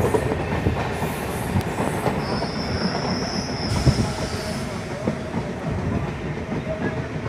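Passenger train running on the rails, heard from a coach window: steady wheel rumble with irregular rail knocks, and a high squeal from about two seconds in, lasting roughly two seconds.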